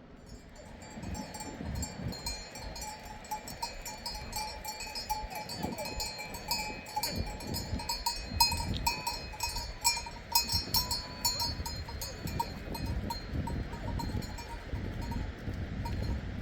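Livestock bells clinking and ringing irregularly as the animals move, a steady jangle of small bell tones over low thuds and rustling.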